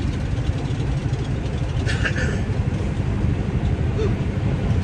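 Steady low rumble inside the cab of an International 9900 semi truck running down the highway: its 600-horsepower Cummins diesel engine together with road noise.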